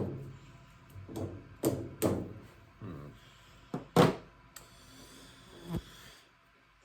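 A few irregular knocks and clunks of metal hand tools, the loudest about four seconds in.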